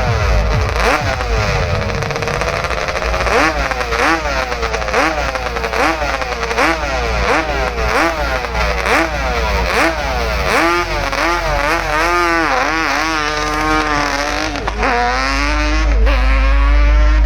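Yamaha RD 350 air-cooled two-stroke parallel-twin engine, tuned to drag spec, being revved over and over in quick throttle blips that rise sharply and fall back. Near the middle the revs waver faster. About 15 s in the engine rises sharply and is held higher.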